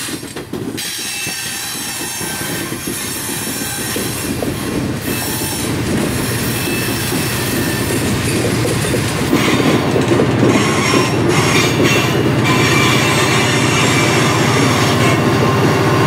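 Ore cars of a freight train rolling past, their steel wheels squealing in thin high tones over a steady rumble, with some clicking over the rail joints. It grows louder about nine seconds in.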